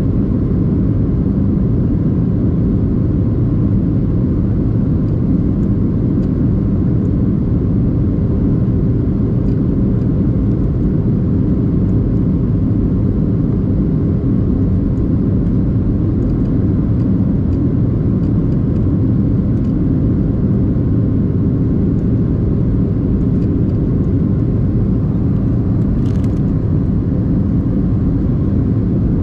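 Steady low rumble of a Boeing 737-800's engines and airflow, with a few faint steady tones in it and a brief higher hiss about 26 seconds in.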